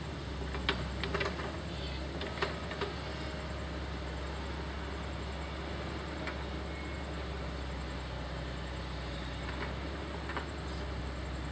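Heavy diesel machinery running steadily, with a few sharp clanks and knocks in the first three seconds and again near the end.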